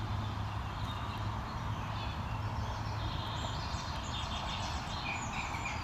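Outdoor ambience with a steady low background rumble; from about halfway through, small birds chirp in repeated short trills.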